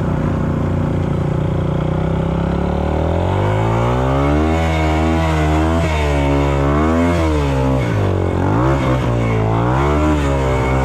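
Dirt bike engine running steadily, then revved up and down over and over from about three seconds in.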